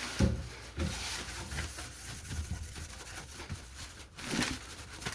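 A cloth rubbing and wiping over the rusty metal of a fire pit, cleaning off rust dust and grease, in irregular scrubbing strokes.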